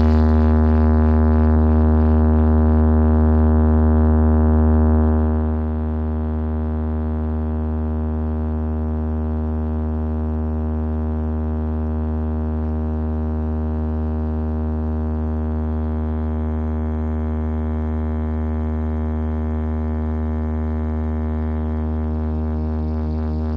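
Steady electronic drone played through a DJ sound system for a sound test: one held bass tone with many overtones, unchanging in pitch. It drops in level about five seconds in and then holds steady.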